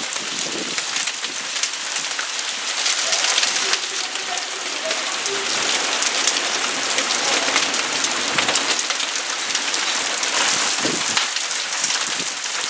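Heavy rain mixed with hailstones hitting a hard surface: a dense steady hiss with many sharp ticks from the hail strikes.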